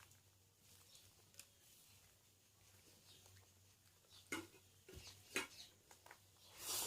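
Faint eating sounds: biryani being chewed with wet mouth clicks, a few sharper smacks in the second half and a short louder noisy burst near the end.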